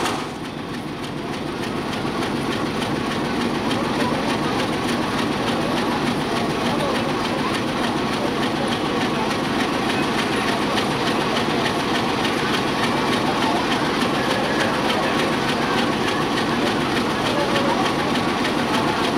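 A train rolling on the rails: a steady, unbroken wheel-on-rail clatter.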